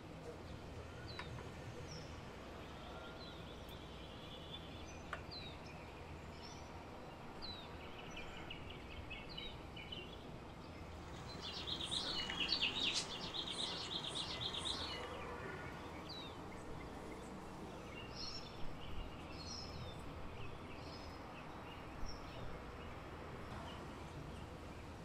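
Small birds chirping over a steady low background rumble: single short chirps every couple of seconds, with a busier bout of rapid chattering about halfway through.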